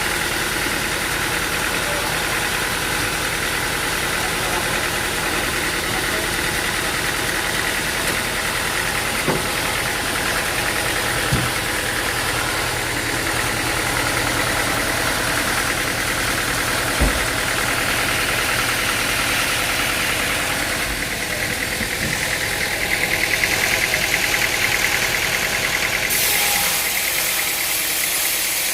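An engine-driven machine running steadily, with a few sharp knocks along the way. The tone shifts in the second half, and a high hiss comes in near the end.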